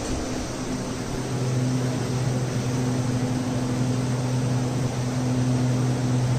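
Room air cooler running: a steady fan hum with a low tone over the rush of air.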